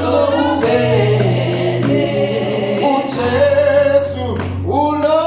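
Church congregation singing a gospel dismissal song together, several voices in sustained, held notes.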